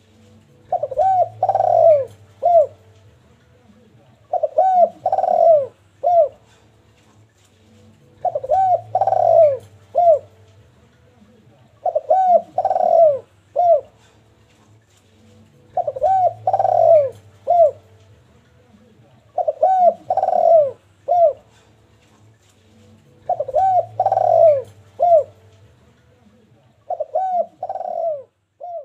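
Derkuku dove cooing: eight phrases of several short coos each, about every four seconds, with the loudest, longest coo in the middle of each phrase.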